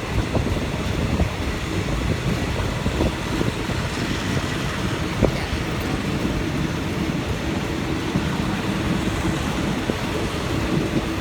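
Inside a moving passenger train carriage: the steady running noise of wheels on rails and a rattling coach, with one sharp click about five seconds in.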